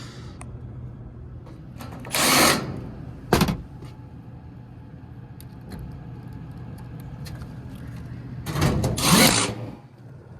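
Steady low hum of a running rooftop HVAC unit. Two short loud bursts of noise break over it, one about two seconds in and one near the end, with a single sharp knock between them.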